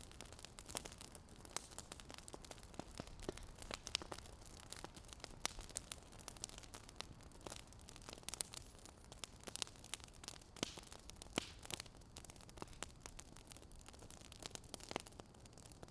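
Wood fire crackling quietly: irregular sharp snaps and pops, several a second, over a low steady hiss.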